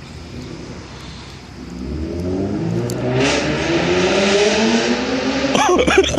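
2014 Ford Mustang's 3.7-litre V6 through a Roush axle-back exhaust, accelerating hard under throttle: the exhaust note swells and rises in pitch from about a second and a half in, loudest near the end, with a brief warble just before it fades.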